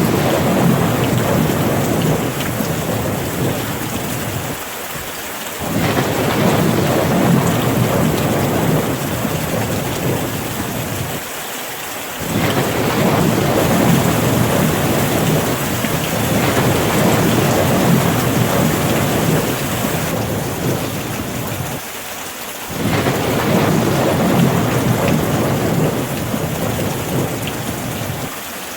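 Steady rain falling, with low rolling thunder. The rumbles swell up suddenly every six to ten seconds, about three times, and die away slowly under the rain.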